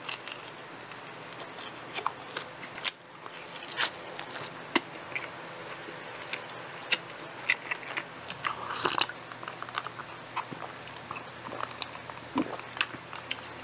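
Close-miked eating sounds: biting into and chewing a slice of pepperoni pizza, with many small wet clicks and smacks of the mouth. Near the end comes a sip from a mug.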